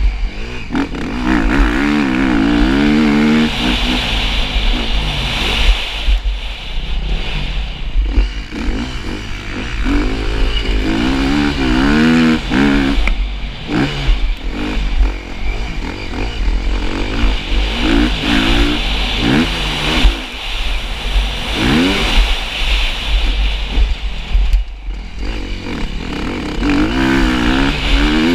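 Motocross motorcycle engine revving hard, its pitch climbing and dropping again and again as the throttle opens and closes.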